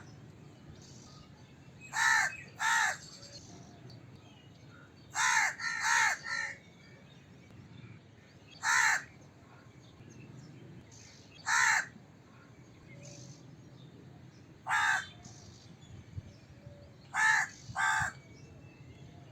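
A crow cawing: about ten harsh caws, some single, some in quick pairs and one run of three, with pauses of a few seconds between them.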